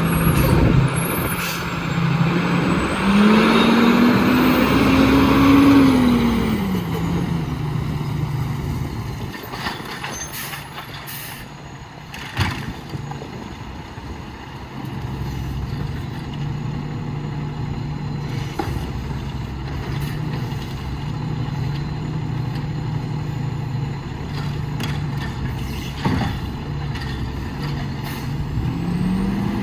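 Autocar WXLL garbage truck's diesel engine, idling, revving up about three seconds in and dropping back to a steady idle a few seconds later, then revving again at the very end. A few sharp clicks and hisses, among them air-brake sounds, stand out, the clearest near the middle.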